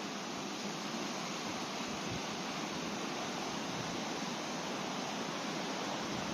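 Fast-flowing river water rushing steadily, an even unbroken hiss.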